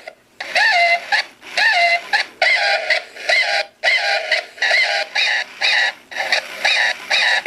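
Two Gemmy Pete the Repeat Parrot toys repeating speech back and forth in high-pitched electronic voices: a string of short phrases with brief gaps between them, the toys echoing each other in a loop.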